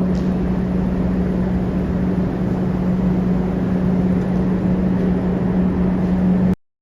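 A vehicle running steadily, with a constant low hum over a broad rushing noise. It cuts off suddenly near the end.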